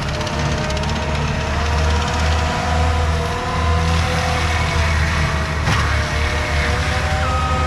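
Skid steer with a forestry mulcher head running steadily: a deep engine drone with a wavering whine over it.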